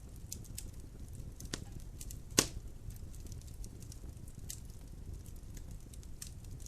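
Logs burning in a fireplace, crackling with scattered sharp pops over a steady low rumble. The loudest pop comes about two and a half seconds in.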